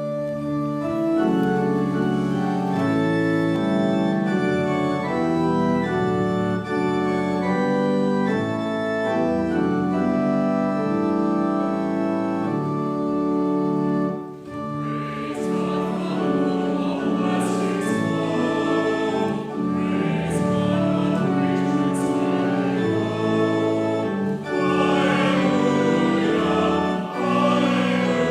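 Church organ playing slow, sustained chords; about halfway through, a choir of voices joins in singing with the organ.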